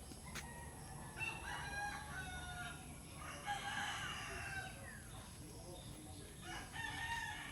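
Rooster crowing, three crows a couple of seconds apart.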